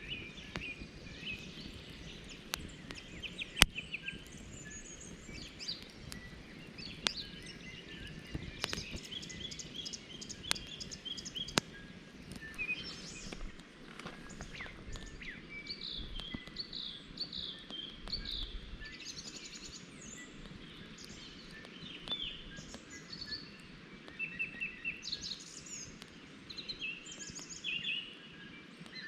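Several birds chirping and trilling over steady low outdoor background noise, with a few sharp clicks or snaps in the first half.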